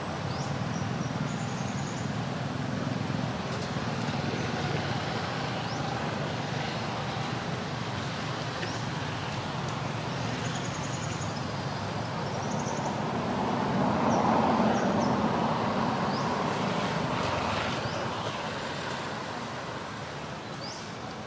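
Steady outdoor rumble like road traffic, swelling for a few seconds past the middle as if a vehicle goes by, with faint short high chirps scattered through it.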